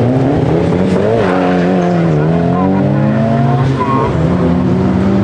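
Car engine revving under load, its pitch climbing, dipping and climbing again before settling steady near the end.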